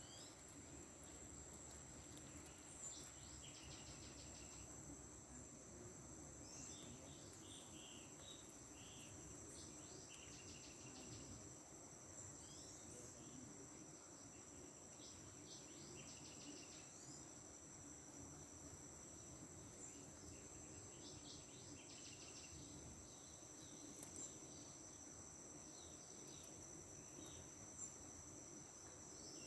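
Faint, steady, high-pitched chorus of crickets, with scattered short chirps and clusters of ticks.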